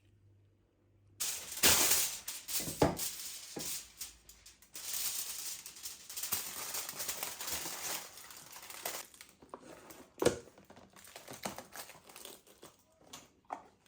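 Rustling and crinkling with a clatter of sharp clicks and knocks, as things are handled close by; it starts about a second in and thins to a few separate knocks near the end.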